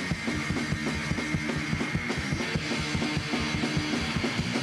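Punk rock band playing live: fast, driving drums with distorted electric guitar and bass, an instrumental stretch between vocal lines.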